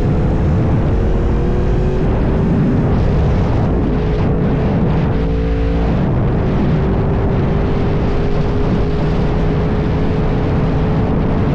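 Yamaha R1 sport bike engine running under a loud, steady rush of wind noise, its note climbing slowly at the start and again from about halfway.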